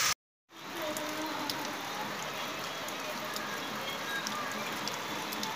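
Steady rain falling, with scattered sharp ticks of drops. It cuts in after a brief moment of silence at the start.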